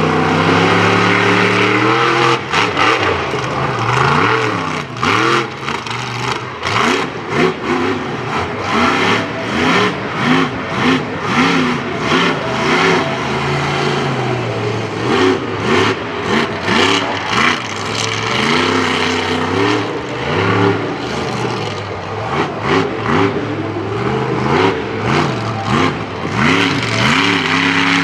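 Monster truck engine revving hard, its pitch rising and falling over and over, with many sharp cracks and bangs through the run.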